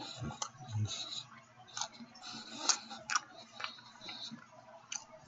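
Close-up chewing of a steak sandwich: irregular wet mouth clicks and smacks.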